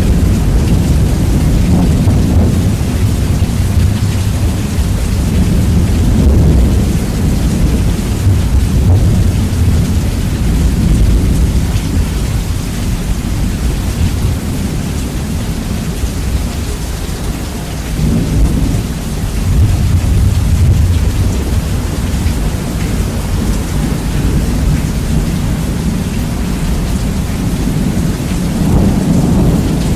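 Heavy rain with rolling thunder, heavily bass-boosted so the low rumble dominates and distorts. The thunder swells louder about two-thirds through and again near the end.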